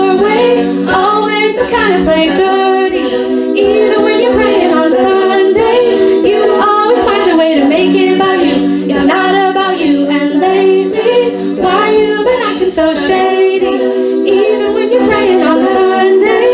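College a cappella group singing layered chords with no words the recogniser could catch, over a steady vocal-percussion beat of sharp clicks about twice a second. A low bass line drops out about three seconds in and returns near the end.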